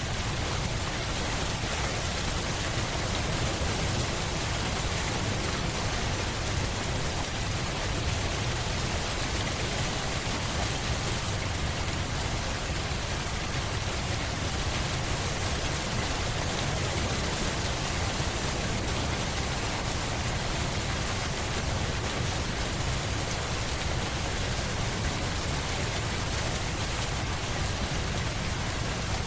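Steady rain falling on a surface, a continuous even hiss with a low rumble beneath it.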